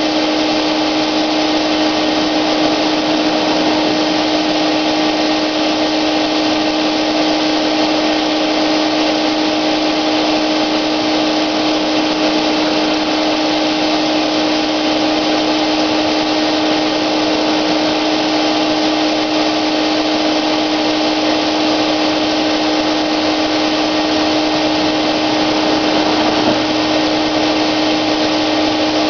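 Wagner electric paint sprayer running steadily: a constant motor whine over a rushing hiss of air.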